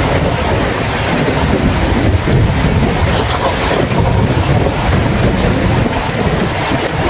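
Steady heavy rain, a dense even hiss of drops with a deep low rumble underneath.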